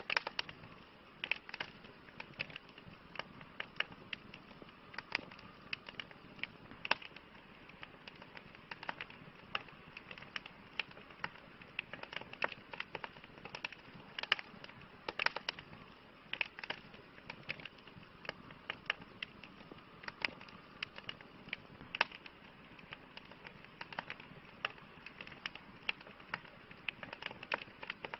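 Campfire burning, the wood crackling with irregular sharp pops over a soft steady hiss.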